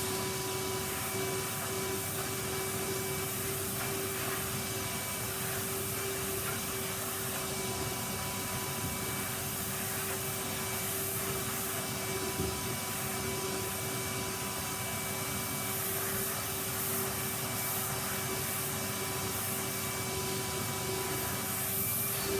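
Vacuum cleaner running steadily on a carpet, a constant motor whine over the rush of suction.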